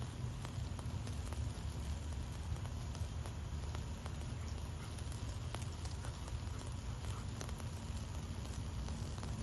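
Wood fire in a fireplace crackling, with scattered sharp pops and snaps over a steady low rumble of burning.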